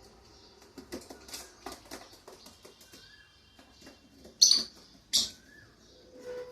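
Pet lovebirds making light clicking and tapping sounds, then two loud, short, harsh calls about a second apart past the middle.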